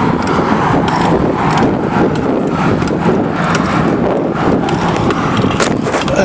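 Wind rumbling on the microphone of a camera carried on a moving bicycle, with a few sharp clicks and knocks from the bike over the road.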